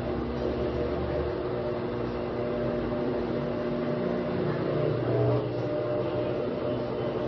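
Midea washer-dryer running its spin cycle: a steady mechanical hum with several steady whining tones over it. This is the unusual noise the machine makes when spinning.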